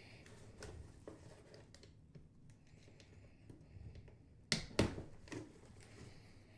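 Quiet handling of a hairdryer's box and packaging, faint rustling with two sharp clicks or knocks about four and a half seconds in.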